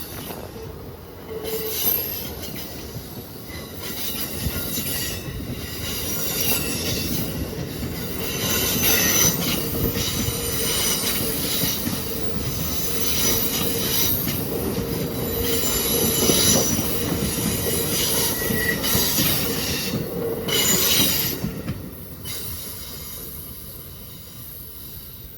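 Train rolling past, its wheels squealing in high tones that come and go over the steady rumble of the cars. It grows louder toward the middle and dies down near the end.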